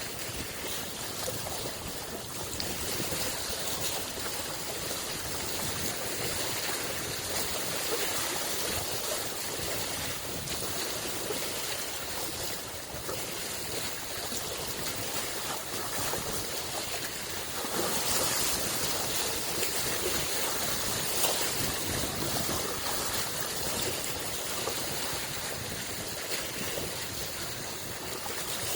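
Small lake waves lapping at the shoreline, a steady wash of water with gentle swells.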